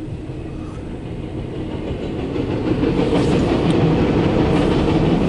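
CSX intermodal/autorack freight train rolling by: a steady rumble with clattering wheels that grows louder after about two seconds.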